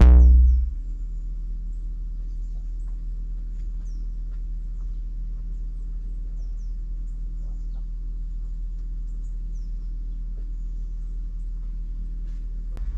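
A steady low hum with faint, short, high chirps of birds calling now and then over it.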